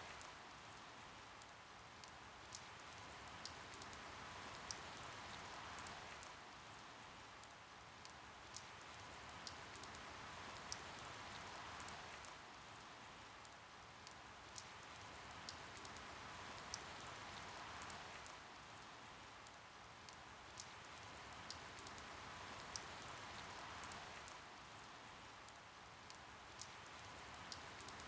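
Steady soft rain falling, with scattered sharp drips, the patter swelling and easing about every six seconds.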